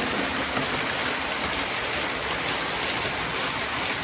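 Lionel model train running around the layout's track: a steady, even rush of wheels and motor on the rails.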